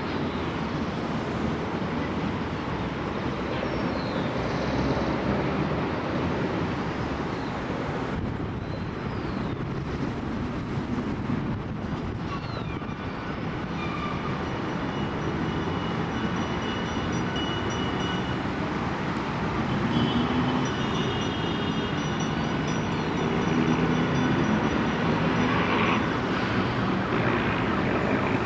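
Steady road traffic noise from passing vehicles on a busy city avenue, a continuous rumble of engines and tyres, with a few faint thin high tones coming and going.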